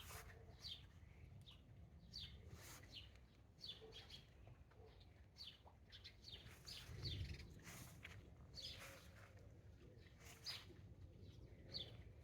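Small garden birds chirping, a string of short high chirps that slide downward, about one or two a second, over a faint low rumble.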